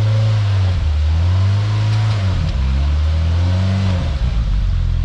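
Off-road vehicle's engine under throttle while rock crawling, revving up and easing off in about three swells, then settling to a steady lower speed near the end.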